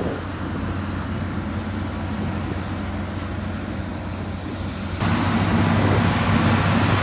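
Diesel engine of a heavy road-building machine running steadily with a low hum. About five seconds in, the sound abruptly becomes louder and fuller.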